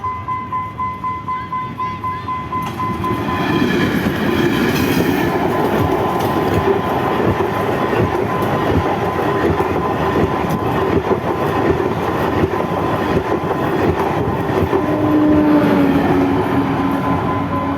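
Diesel-hauled passenger train passing close by. Wheels clatter over the rail joints in a quick, even rhythm at first, then give way to a steady rush of wheel-on-rail noise.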